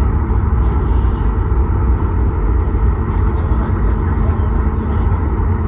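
Steady low rumble of a Boeing 737 MAX 8's CFM LEAP-1B engines and rushing air, heard inside the passenger cabin.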